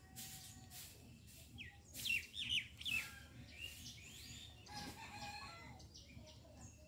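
Birds chirping, with a quick run of loud chirps about two to three seconds in and fainter calls after.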